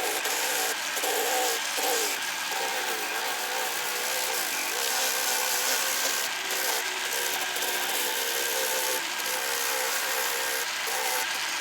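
A power tool's motor running steadily, its pitch dipping and briefly breaking off several times as the load on it changes.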